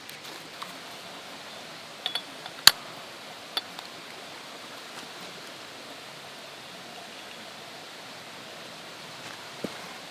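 Steady outdoor background hiss with a few sharp clicks or knocks: a quick pair about two seconds in, the loudest just after, and one more near the middle.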